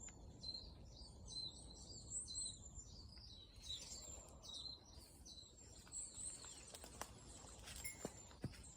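Small birds chirping, a quick run of short high notes repeated over and over, fading out about halfway through; a few sharp clicks or taps near the end.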